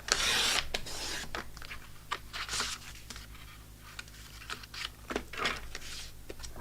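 Paper trimmer cutting through cardstock: a rasping scrape of the blade in the first second, then shorter scrapes and sharp clicks of the trimmer and paper being handled.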